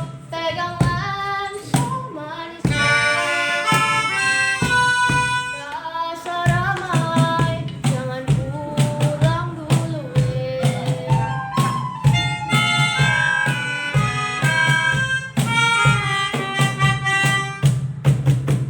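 Children singing a folk song in a group with instrumental accompaniment, a steady low note under the melody and regular percussive hits keeping the beat.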